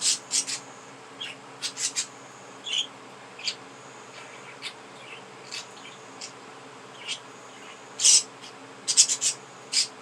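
Pet budgerigars chirping and chattering in short, sharp high-pitched bursts, thickest at the start and again near the end.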